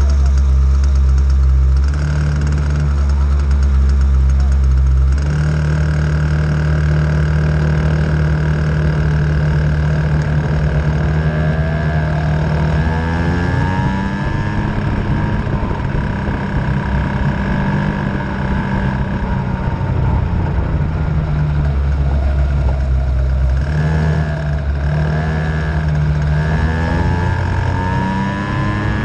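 50cc Venom racing engine running over a steady low drone, its pitch rising and falling as it revs, about halfway through and again near the end.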